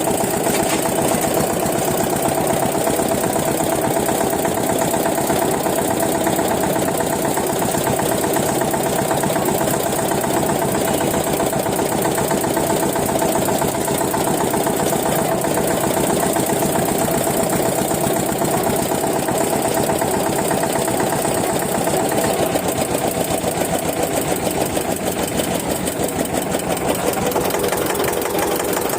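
Old Eicher tractor's diesel engine running steadily with a fast, even beat.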